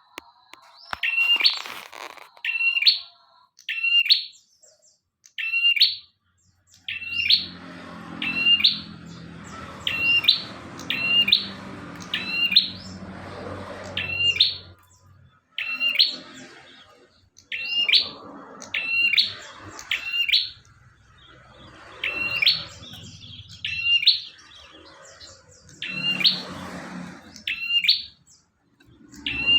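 Prinia (prenjak) calling over and over: short, sharp chirps about once a second, often in quick pairs. A low rumble sounds in the background for several seconds in the middle.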